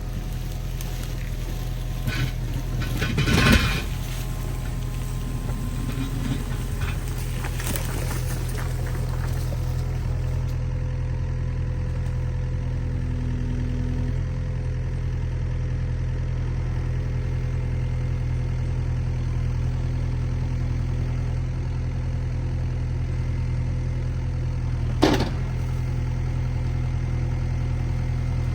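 Excavator's diesel engine running steadily while it works on downed trees. A short crash comes about three seconds in, and a single sharp crack, the loudest sound here, comes near the end.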